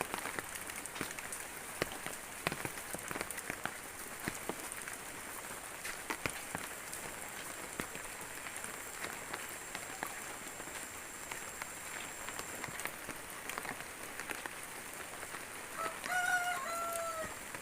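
Steady rainfall, with many single drops ticking sharply close to the microphone. Near the end a short two-part pitched call, an animal or voice, sounds over the rain.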